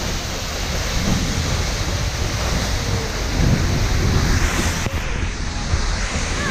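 Steady rushing roar of a waterfall pouring down close by, mixed with wind buffeting the microphone.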